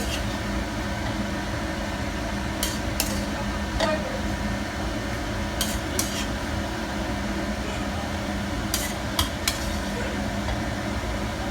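Utensil stirring a pan of stir-fried broccoli and vegetables: a few sharp clinks against the pan, some in quick pairs, over a steady low hum.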